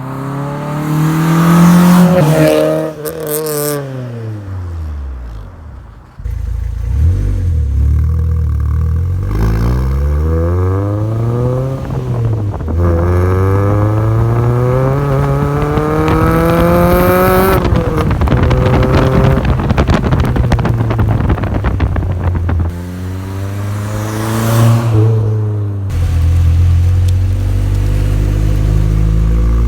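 Honda Civic four-cylinder engine breathing through an HKS Hi-Power exhaust, driven at part throttle: the revs climb and fall again several times as it pulls through the gears. The longest climb, in the middle, ends in a sudden drop, and the engine settles to steady cruising near the end. It is a freshly swapped engine being eased up through the rev range on its first drive.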